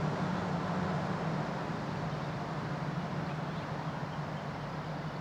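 Steady low hum under a faint even hiss of background noise, easing slightly toward the end, with no bird calls standing out.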